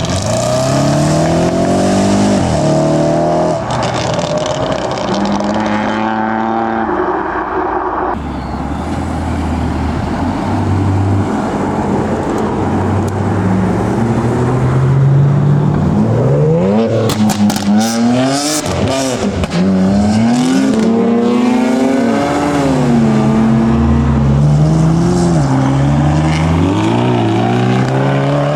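Modified tuner cars accelerating away one after another, their engines revving up and falling back through gear changes. A little past halfway, a rapid run of sharp exhaust pops and bangs comes through over the revving.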